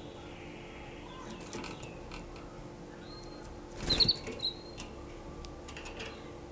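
Canary giving a few short high chirps about four seconds in, together with a brief louder rustle, the loudest moment. Light scattered clicks and scuffles come before and after it.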